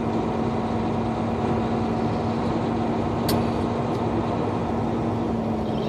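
Semi-truck engine and road noise heard from inside the cab as the truck rolls through a parking lot, steady throughout with a constant hum.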